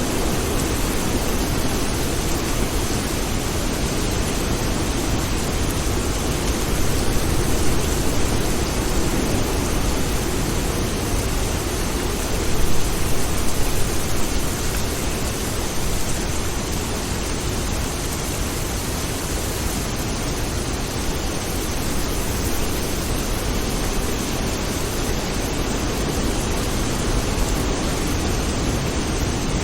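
Steady heavy rain, an even hiss with a deep low rumble underneath, swelling briefly twice before the half-way point.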